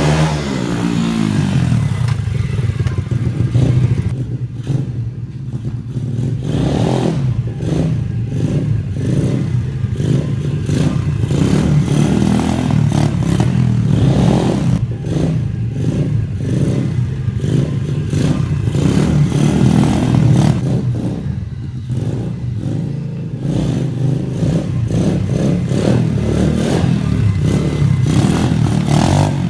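125cc pit bike's single-cylinder four-stroke engine being ridden hard, revving up and easing off again and again, with rough clattery noise over the engine.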